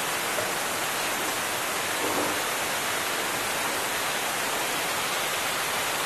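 Steady hiss of sliced potatoes and tomatoes frying in oil in a kadai.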